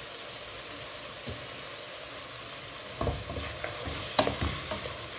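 Food sizzling in a frying pan, with a utensil stirring and scraping it from about three seconds in and a sharp knock against the pan a little after four seconds.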